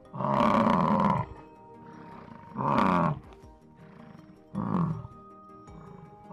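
A cow mooing three times, the first call longest and the later ones shorter, over quiet background music.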